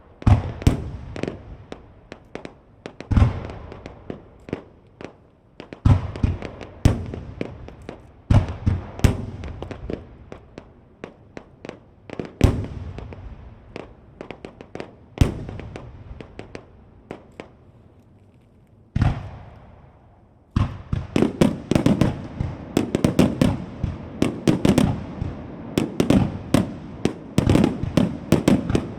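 Aerial firework shells of a starmine bursting: separate booms with echoing tails, a short lull, then, from about two-thirds of the way through, a rapid barrage of many bursts close together.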